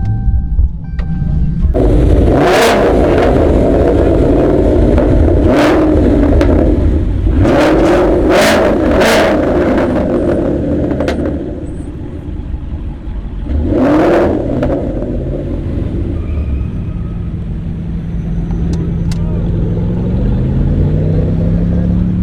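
Loud car engine under hard acceleration, with sharp cracks over its rumble during the first half. Near the end it settles into a steadier note that rises and then falls.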